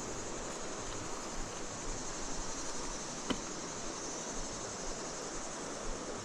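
Steady high-pitched insect chirring over an even background hiss, with a single sharp click about three seconds in.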